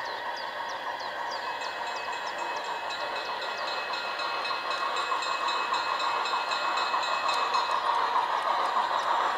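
Garden-scale model train running on its track, with a steady rolling noise and regular rapid clicking of the wheels. It grows louder over several seconds as the train comes closer, with a thin steady whine through the middle stretch.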